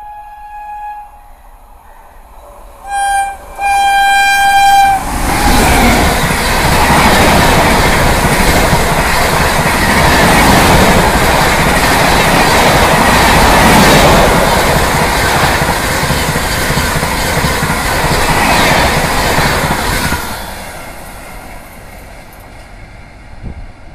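WAP-7 electric locomotive's horn: one blast ends about a second in, then a short blast and a longer one follow near three to five seconds in. Then a superfast express passes at about 130 km/h, a loud, steady rush of wheels and coaches on the rails that fades away over the last few seconds.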